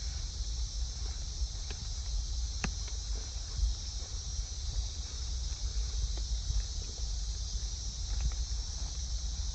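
Rain in a forest, with scattered drops tapping nearby over a low rumble, and a steady high chorus of night insects.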